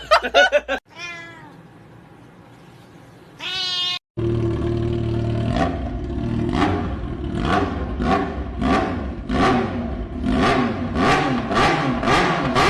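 A cat meowing twice. Then comes a fast run of repeated short cries, about two a second, over a steady low rumble.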